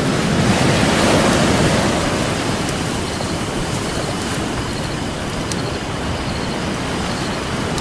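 Ocean surf washing on a beach: a wave swells up in the first two seconds, then settles into a steady wash. A few faint crackles of a wood campfire sound through it.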